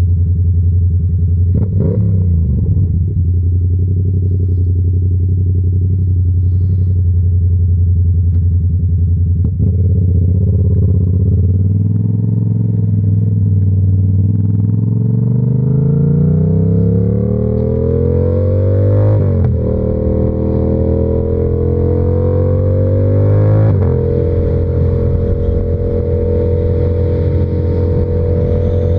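Yamaha R7's parallel-twin engine running steadily at low revs with a brief rev about two seconds in, then pulling up through the revs with two upshifts, one about two-thirds of the way through and one near the end, before holding a steady cruise. Wind hiss rises as the bike speeds up.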